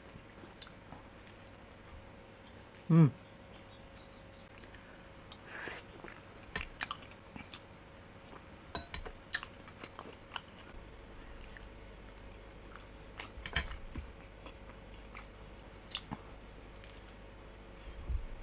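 A person chewing a crust of rye bread with cream cheese: scattered soft wet clicks and smacks of the mouth. About three seconds in, one short, loud sound falling in pitch stands out.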